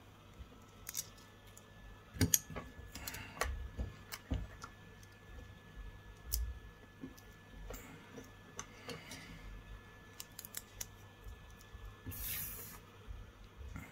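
Scattered light clicks and taps of small hand tools being handled at a phone-repair bench while capacitors are worked off an iPhone XR logic board, with a brief hiss near the end.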